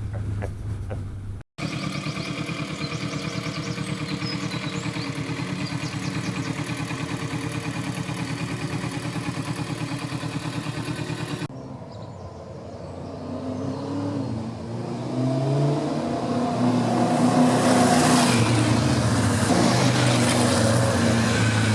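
Motorcycle engine running at a steady note. After an abrupt cut a little past halfway, it is heard accelerating, its pitch rising and falling through gear changes as it grows louder, with rushing wind.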